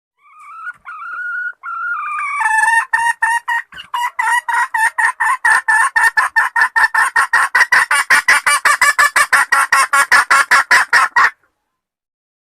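Female junglefowl (hen) calling: a few drawn-out clucks, then a long fast run of sharp repeated clucks, about five a second, that stops abruptly.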